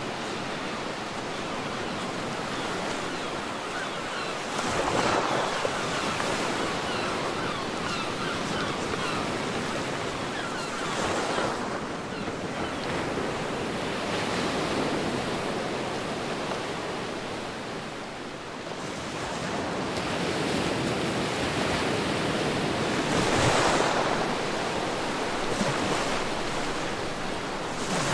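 Ocean surf breaking and washing up a beach in a steady rush, with waves swelling louder about five seconds in, again around eleven seconds, and most strongly around twenty-three seconds.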